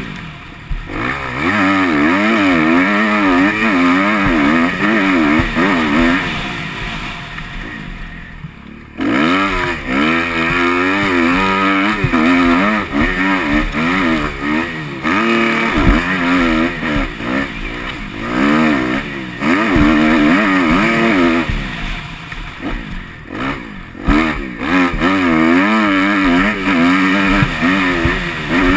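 Motocross bike engine revving hard, its pitch rising and falling again and again under the throttle. It eases off and quietens about a third of the way in, then pulls hard again.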